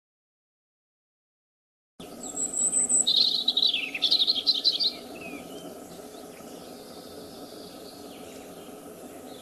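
Silence for about two seconds, then a small bird chirping and trilling for about three seconds over a steady outdoor background. The background carries on alone after the calls stop.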